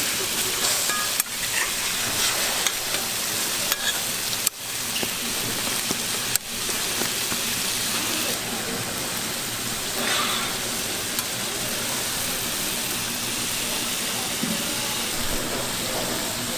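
Food frying on a hot griddle, sizzling steadily. A few sharp knocks come in the first half.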